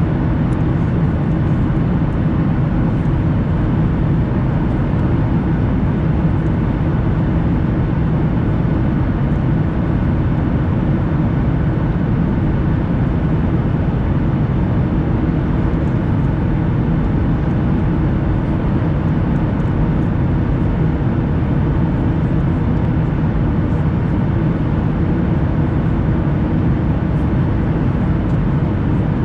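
Steady cabin drone inside a Boeing 737 airliner in flight: the jet engines and rushing airflow make an unchanging low roar with a faint hum in it.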